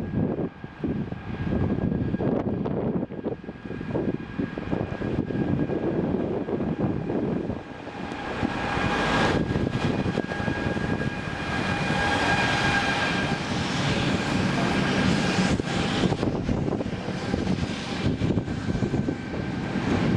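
Freight train hauled by electric locomotives passing, a rumble under a steady high whine that swells to its loudest about halfway through.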